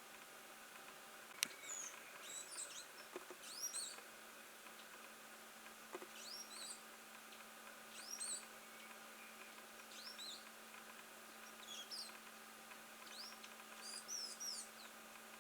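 High-pitched chirping calls of a small bird, short notes that sweep up and down, coming in little clusters every second or two. A single sharp click about a second and a half in.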